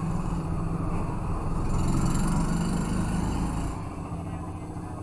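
A motor running with a steady low hum. It grows louder, with added hiss, about two seconds in, and falls back again near four seconds.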